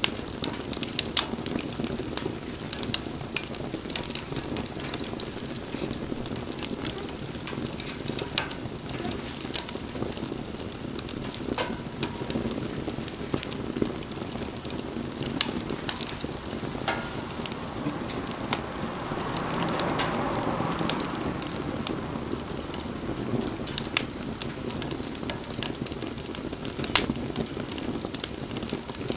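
Wood campfire burning, crackling steadily with frequent sharp pops and snaps from the burning logs, and a brief swell of hissing about two-thirds of the way through.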